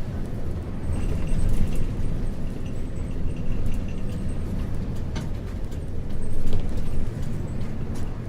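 Isuzu U-LV224N bus's 6QB2 diesel engine running under way, heard from inside the passenger cabin together with road noise and light clicks and rattles of the bodywork. It swells louder for a moment about six and a half seconds in.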